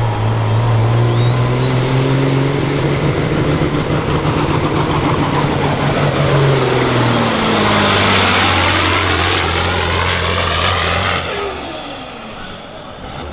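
Semi truck's diesel engine run hard at high revs, pulling the weight sled down the track. Its pitch slides lower and the engine note drops about seven seconds in, then the sound fades away about eleven seconds in.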